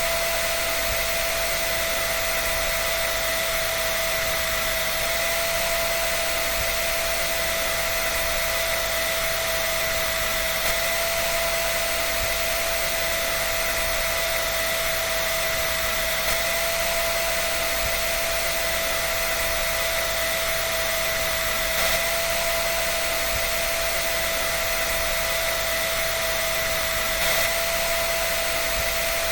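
Hair dryer running steadily: a constant rush of air with a steady high motor whine, unchanging throughout.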